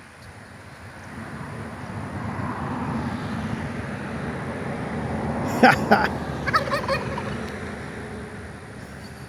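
A vehicle passes on the road, its noise swelling for several seconds and then fading. About five and a half seconds in, a turkey gobbles: a short, loud, rapid rattling call, followed by a weaker run of pulses about a second later.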